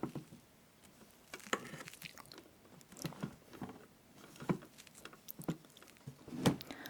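Close-miked eating sounds of whipped-cream cake: soft squishes and taps of a utensil cutting through the cream, chewing, and a few sharp clicks of tableware, the loudest near the end.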